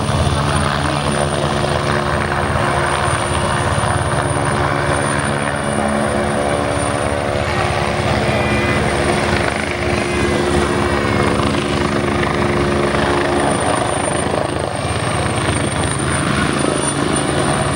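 Helicopter hovering steadily: a continuous deep hum of rotor and engine, with a thin, steady high whine above it.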